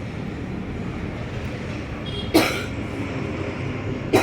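Steady low rumble of background noise, broken by a sharp knock about two and a half seconds in and another right at the end.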